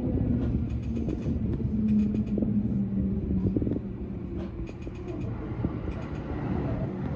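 JR East E235-1000 series electric train running, a steady rumble with low motor tones and several quick runs of clicks from the wheels over the track.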